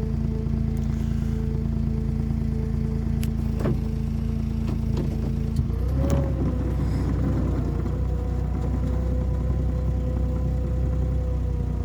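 Motor vehicle engine running steadily; about six seconds in its note changes, with a deeper hum coming in and a tone that rises briefly and then settles.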